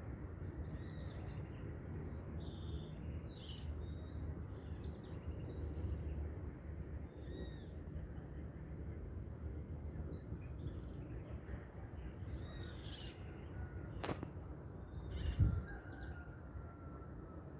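Many small birds calling and chirping in a dawn chorus, short scattered notes from several birds over a steady low rumble. A sharp click about fourteen seconds in is followed by a low thump, the loudest sound.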